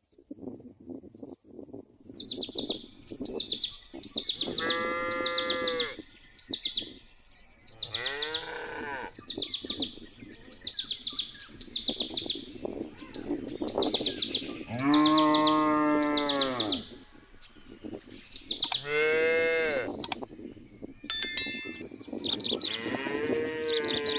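Cattle mooing: five long, drawn-out calls, several seconds apart. Behind them runs a steady high-pitched buzz with a rapid run of high chirps, which stops about three-quarters of the way through.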